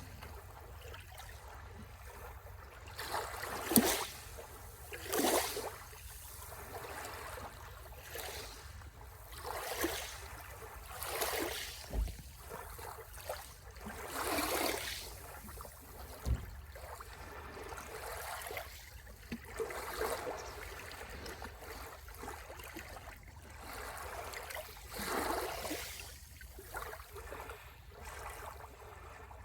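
Small sea waves washing onto the shore, a fresh swash every second or two over a steady low rumble, with a couple of dull thumps in the middle.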